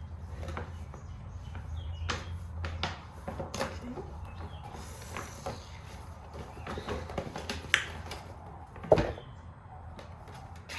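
Packaging being handled and opened: scattered light clicks, taps and rustling, with a louder knock near the end over a steady low hum.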